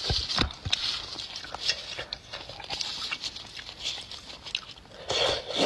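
Close-up wet chewing and mouth sounds of eating beef bone marrow, with scattered small clicks and a louder noisy burst about five seconds in.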